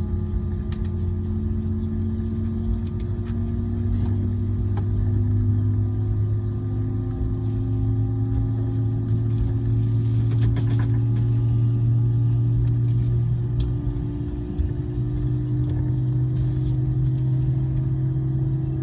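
Jet airliner heard from inside the passenger cabin: a steady, loud engine drone and rumble whose tones rise slowly in pitch, with a few light rattles about halfway through.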